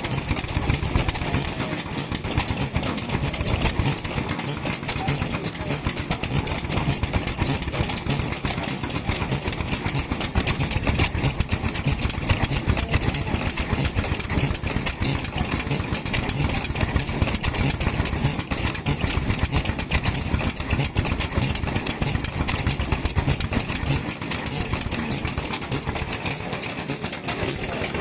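Classic stationary kerosene engines (石油発動機) running steadily, with a continuous rapid exhaust beat.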